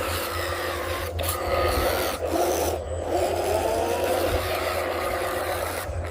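A radio-controlled construction machine at work: its small electric motors and gears whine with wavering pitch over a rasping, scraping noise, with a few brief breaks in the first three seconds.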